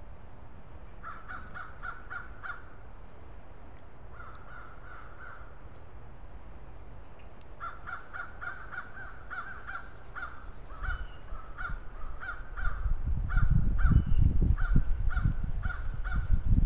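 Birds calling in quick runs of short, harsh, repeated notes, stopping and starting again several times. From about three-quarters of the way in, a loud low rumble of wind on the microphone.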